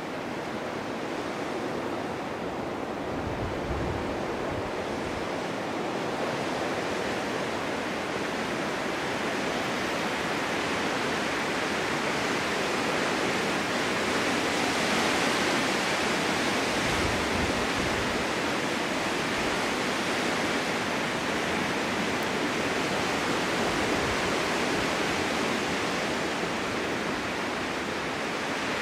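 Strong wind blowing steadily, a dense rushing hiss that swells slowly and eases off a little near the end, with occasional low gusts on the microphone.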